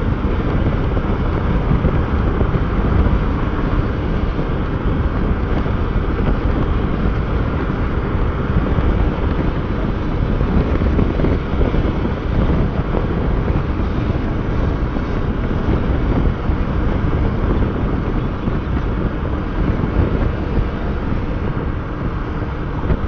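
Motorcycle under way at a steady speed, its engine running beneath wind rushing over the microphone.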